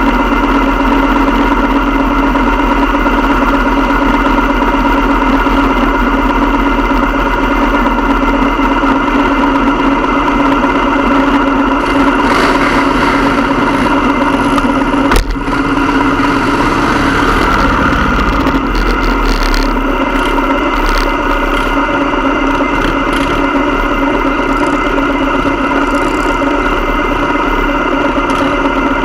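Motorcycle engine running at a steady, even speed, with one sharp click about halfway through.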